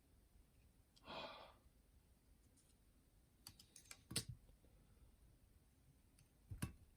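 Faint clicks and taps of small plastic and metal parts being handled while working on a boombox cassette mechanism: a cluster about three and a half to four seconds in and one more near the end. About a second in there is a short breathy exhale.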